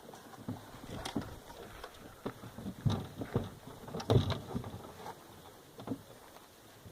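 A series of irregular soft thumps and knocks, loudest about three seconds in and again just after four seconds.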